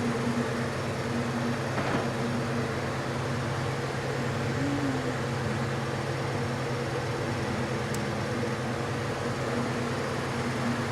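Steady low mechanical hum that holds a constant level, with a faint tick about two seconds in and another near eight seconds.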